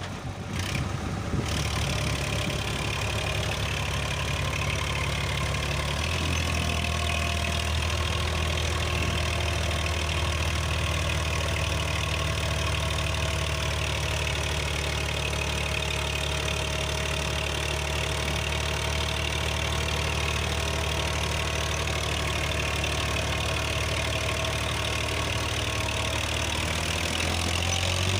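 Massey Ferguson tractor's diesel engine running steadily under load. Its low note changes about six seconds in, then holds.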